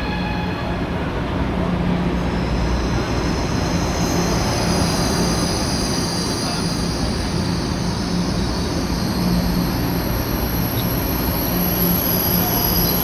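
High-speed electric train running, a steady rumble with a low hum, joined a few seconds in by several high-pitched whines.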